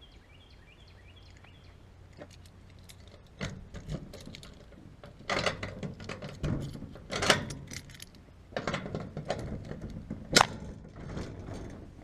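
Irregular metallic clinks, knocks and clattering, like hard objects being handled and set down, with a sharp knock about ten seconds in that is the loudest.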